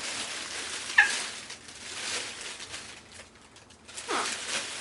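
A parrot gives a short, sharp call about a second in and a call falling in pitch near the end, over the rustling of packaging being handled.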